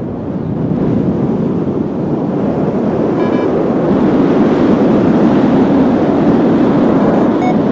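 Strong wind rushing over the microphone in paraglider flight, a steady roar that swells a little after the first second. A short electronic beep, typical of a flight variometer, sounds about three seconds in and again at the very end.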